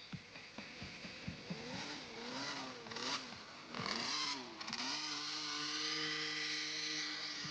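Small 50 cc motocross bike engines revving up and down, then holding a steady high note from about five seconds in.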